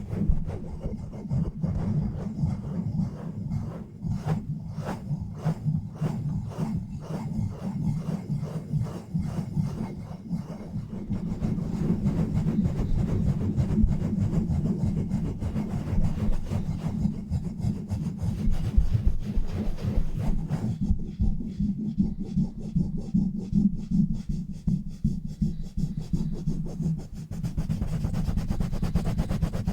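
Fast, rough rubbing and scratching directly on a bare microphone with no foam cover, a dense run of quick strokes that are mostly deep in tone.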